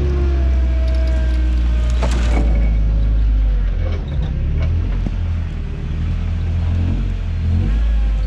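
Toyota truck engine running in a steady low rumble while driving an offroad trail, with a few short squeaks and a sharp knock about two seconds in.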